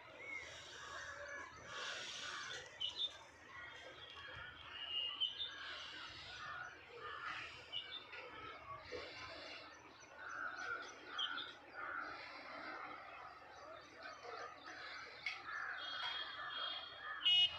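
Several birds chirping and calling throughout, with one loud, sharp call near the end.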